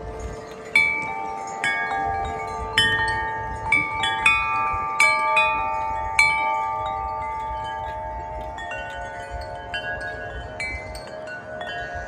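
Wind chime blown by strong gusts: a flurry of clear strikes from about a second in to about six seconds, the tones ringing on and overlapping, then fewer, softer strikes as the gust eases. Wind rumble sits underneath.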